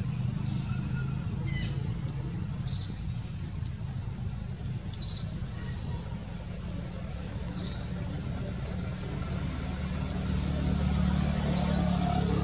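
Short high bird chirps, one every two to three seconds, over a steady low rumble.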